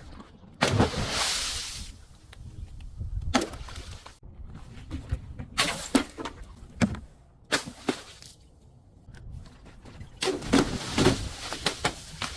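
Objects being crushed: a loud crunch about half a second in, then several separate sharp cracks, and a longer crackling crunch about ten seconds in.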